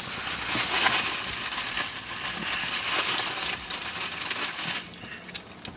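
Crinkling and rustling of plastic takeout packaging being handled and searched through, a crackly noise that eases off about five seconds in.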